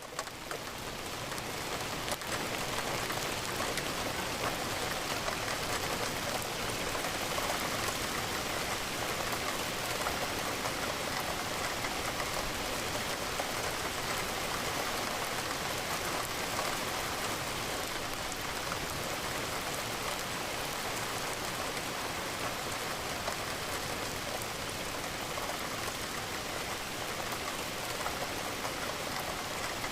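Steady rain, a dense even hiss of falling drops. It dips briefly at the very start and swells back within a couple of seconds.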